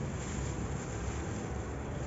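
Steady low rumble of wind buffeting the microphone, with an even hiss above it.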